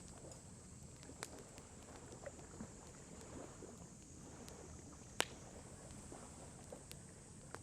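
Wood campfire crackling: scattered sharp pops over a soft steady hiss, with one louder pop about five seconds in.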